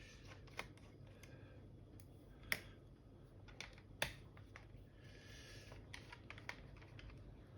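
Scattered faint clicks and taps, the loudest about two and a half and four seconds in, with a short scratchy scrape around five seconds in: a small screwdriver and hands working screws out of a laptop's plastic base panel.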